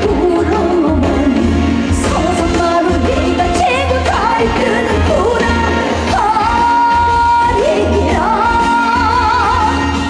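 Live Korean song: a woman singing long, wavering held notes over a band with a steady bass beat.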